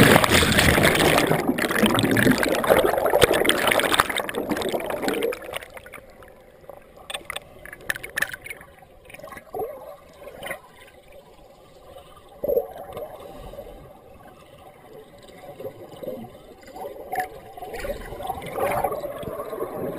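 Sea water rushing and splashing close to the camera for the first five seconds, then dropping to quiet gurgling with scattered small clicks.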